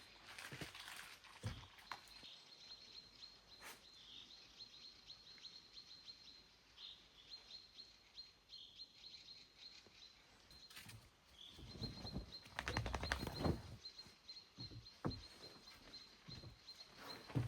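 A small bird calling with rapid, thin, high-pitched chirps at one steady pitch, in quiet forest ambience. About two-thirds of the way through, a louder stretch of rustling and crunching thuds, with a few single knocks.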